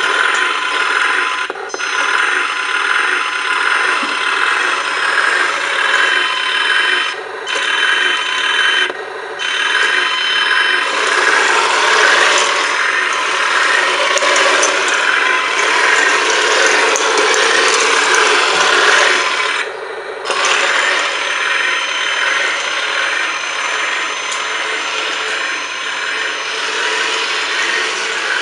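RC bulldozer's electric drive motors and gearboxes whirring and grinding, with the tracks clattering, stopping briefly several times as the model is driven.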